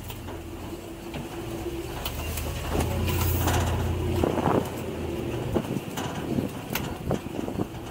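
Open-air 4x4 tour truck driving off-road, its engine running steadily and growing louder for a second or two about three seconds in, with scattered knocks and rattles from the rough ride.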